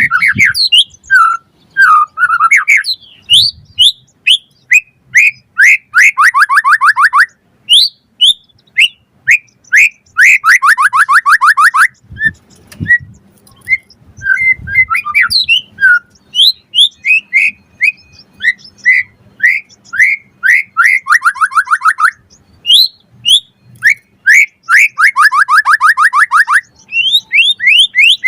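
White-rumped shama (murai batu) singing a loud, varied song: runs of quick whistled and chirped notes, broken four times by fast rattling trills.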